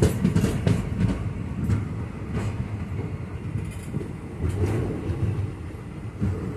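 Passenger train coaches rolling along the track with a steady low rumble, their wheels clicking irregularly over rail joints. Heard close up from the side of the coach.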